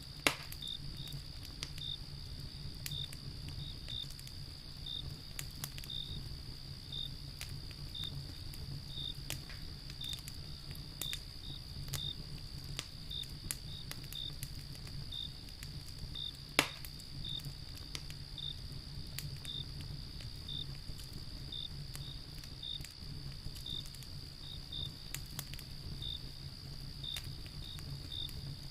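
Wood fire crackling with scattered small clicks and two loud sharp pops, one just after the start and one a little past the middle, over crickets: a steady high trill and regular chirps about one and a half times a second.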